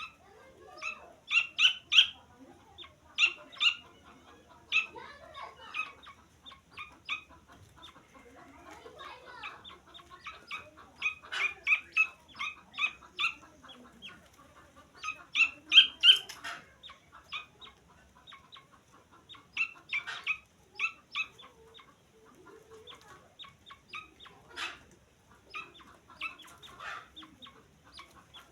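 Francolin (teetar) chicks peeping: many short, high calls in quick clusters, with louder bunches a few times.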